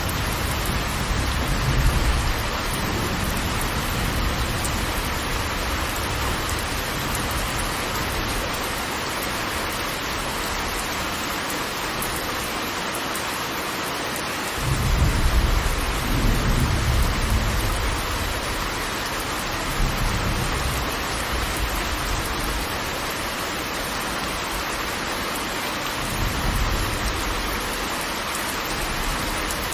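Heavy rain, a steady rush, with rolls of low thunder: one fading over the first few seconds, a stronger one about fifteen seconds in, and a short one near the end.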